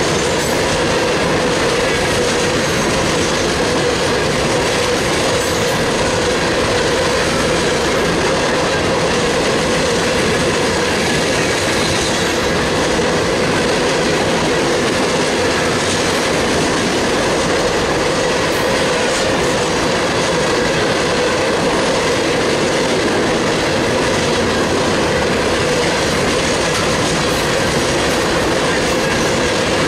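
CSX freight train's hopper cars rolling past close by: a loud, steady noise of steel wheels running on the rails, unchanging as car after car goes by.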